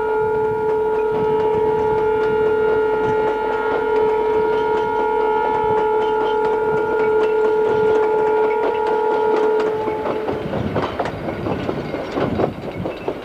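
A locomotive sounds one long, steady, single-pitched blast that stops about ten seconds in. After that comes a rapid clatter of coach wheels over the rail joints as the train passes.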